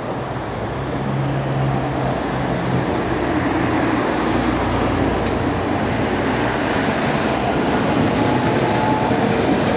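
A tram running on street track, growing steadily louder as it draws nearer, with a low steady hum in the first few seconds.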